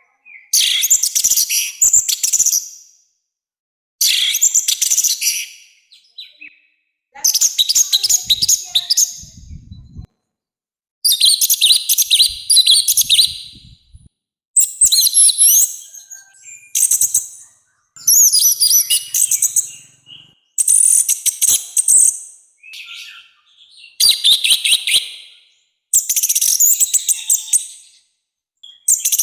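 Orange-headed thrush singing loud, high song phrases, each a second or two long, repeated every two to three seconds with silent gaps between them.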